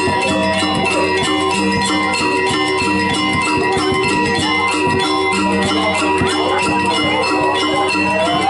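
Balinese gamelan playing, with fast, evenly repeating strokes on bronze metallophones and gongs over held ringing tones.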